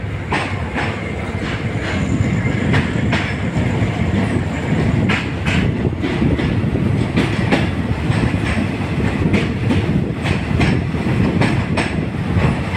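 Passenger train pulling slowly out of the station, heard from a third-class carriage with its window open: a steady rumble of the running train with wheels clacking over rail joints and points at irregular intervals, growing a little louder after about two seconds.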